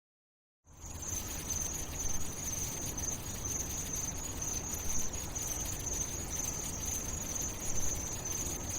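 Steady high-pitched chirring like crickets, with a low rumble beneath, starting suddenly out of silence about a second in.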